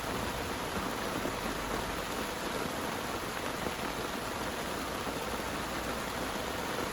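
Heavy rain falling steadily, a dense, even patter with no thunder or other sudden sounds.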